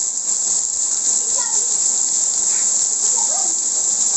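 A steady, loud high-pitched hiss, with faint distant children's voices now and then.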